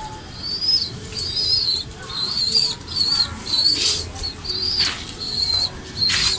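A bird chirping over and over in a pigeon loft: short, high, wavering chirps about twice a second, with a few sharp rustles or wing flaps.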